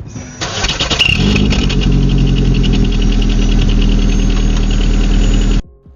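Car engine running steadily at the exhaust with a clip-on turbo whistle fitted, close and loud. It starts about half a second in, swells about a second in with a brief high whistling tone, and cuts off suddenly near the end.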